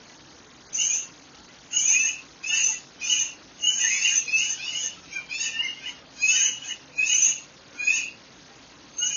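A songbird singing a run of short, bright notes, one or two a second, starting about a second in, over a quiet background.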